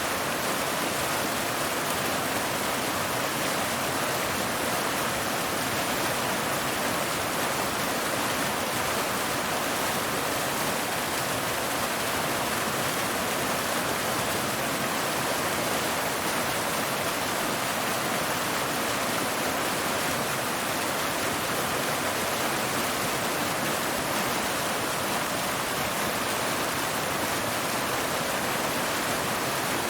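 Waterfall: water cascading over rocks in a steady, unbroken rush.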